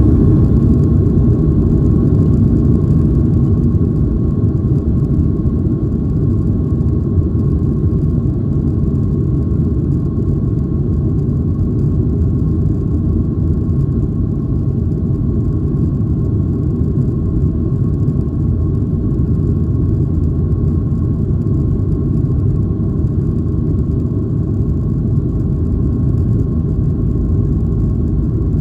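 Cabin noise inside a Boeing 737-800: the CFM56-7B turbofan engines running steadily, a deep rumble with a steady whine near 1 kHz. It eases slightly over the first few seconds and then holds level.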